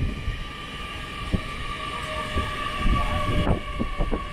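LNER Class 801 Azuma electric multiple unit pulling into the platform: a steady high whine in several tones over a low rumble, with a couple of short knocks.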